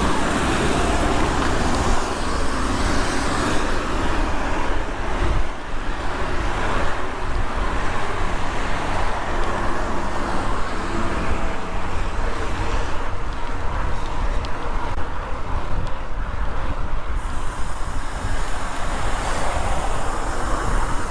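Steady rushing wind and road noise while riding a bicycle.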